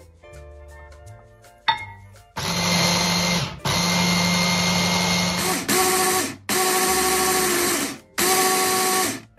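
Small electric kitchen appliance motor run in five short bursts of one to two seconds each, the last three at a higher pitch, loud over quiet background guitar music.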